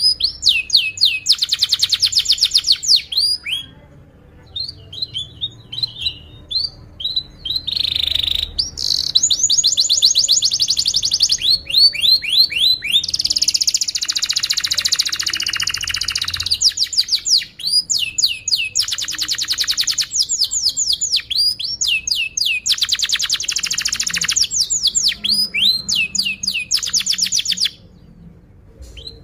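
Domestic canary singing a long, loud song of rapid trills and repeated down-slurred notes, phrase after phrase with only brief breaks.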